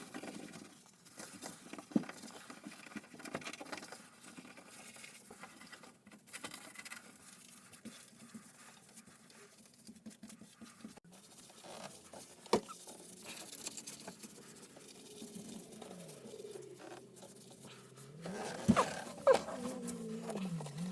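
Light scratching and rustling with scattered small clicks, like hands working at a surface. A sharper click comes about halfway through, and near the end a low wavering tone comes in with two loud knocks.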